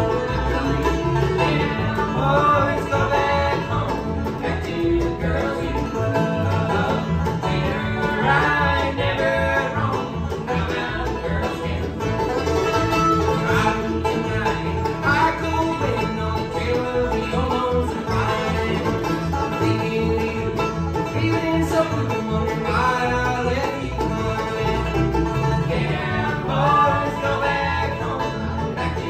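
Live bluegrass band playing, with banjo to the fore over guitar.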